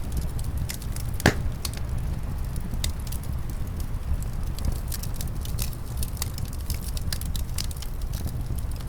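Wood fire crackling in a fireplace: frequent sharp pops and snaps, one loud pop about a second in, over a steady low rumble.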